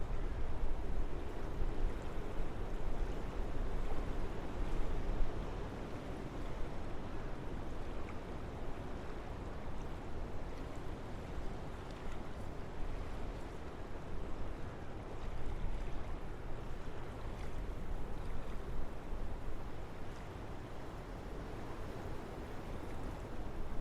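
Wind blowing through forest trees: a steady rushing with a deep low rumble, swelling and easing gently in slow gusts.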